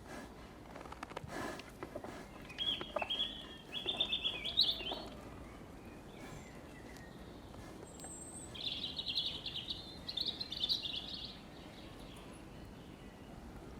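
Songbird singing in two bursts of fast, high chirping trills, one a few seconds in and one in the latter half, over a faint outdoor background, with a single knock just over a second in.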